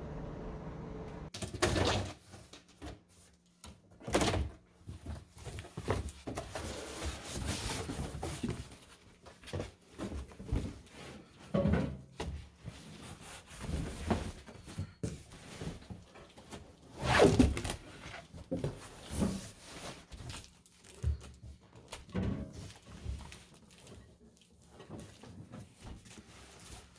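A countertop microwave being unboxed: packaging rustling and being handled, with irregular thunks and knocks, the loudest about two-thirds of the way through.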